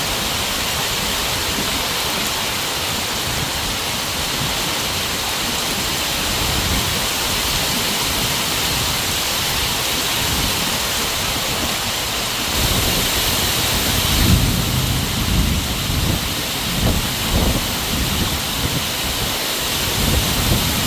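Heavy rain pouring down in a steady hiss. About twelve seconds in, a low, irregular rumbling joins it, swelling and fading several times.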